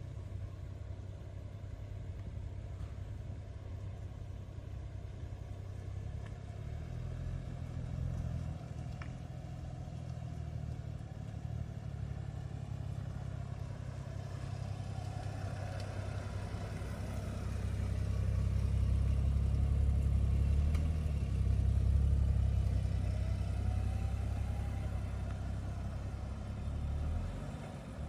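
Stock 2012 BMW 335i's turbocharged 3.0-litre inline-six running through its standard exhaust, a low steady rumble that grows louder for several seconds past the middle as engine speed rises, then settles back near the end.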